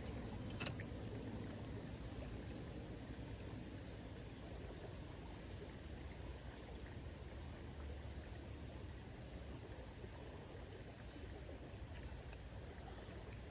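Insects trilling in a steady, continuous high-pitched drone, with a single faint click about half a second in.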